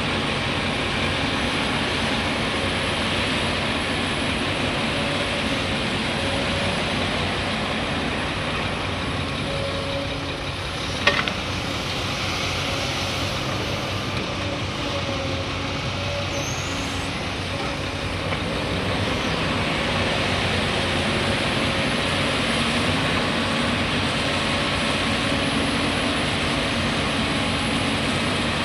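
Heavy diesel machinery running steadily under load, with one sharp click about 11 seconds in.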